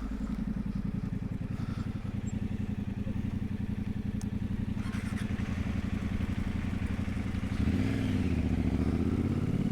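Adventure motorcycle engine running steadily under way, with a steady low engine note. About eight seconds in the engine note shifts in pitch and gets louder.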